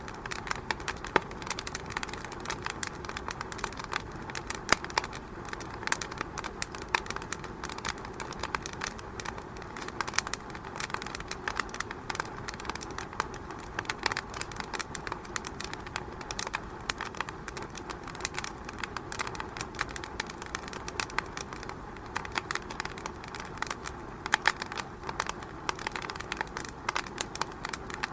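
Fire crackling in a fireplace: many irregular sharp pops and snaps over a steady hiss.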